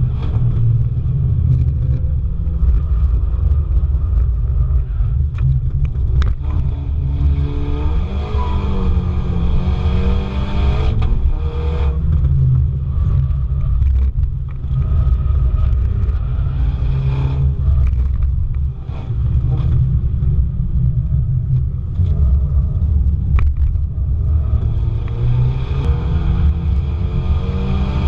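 Car driven hard on a race circuit, heard onboard: the engine note rises under acceleration and drops between gears and corners. A heavy, steady rumble of wind and road noise sits under it.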